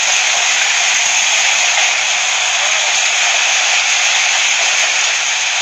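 Heavy storm rain pouring down, a steady loud hiss that does not let up.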